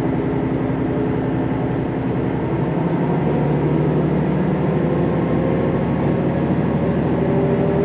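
Sanriku Railway diesel railcar running between stations, heard from inside the carriage: a steady engine drone over rail and running noise. The engine note climbs slowly from about three seconds in.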